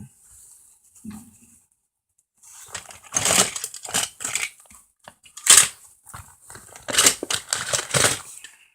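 A bag rustling and crinkling as toys are rummaged through and handled, in irregular loud bouts starting about two and a half seconds in.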